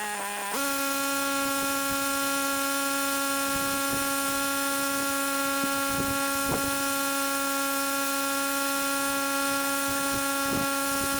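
Pressure-washing machine running with a steady, even hum while the spray is off. Its pitch dips briefly and recovers at the start, and a few faint knocks come through it.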